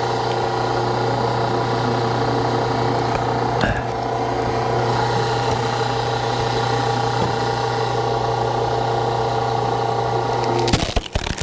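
Hydraulic log splitter's pump running steadily with a constant hum as the ram pushes through a log. A single knock comes about four seconds in. Near the end there is a burst of sharp cracks as the wood splits apart.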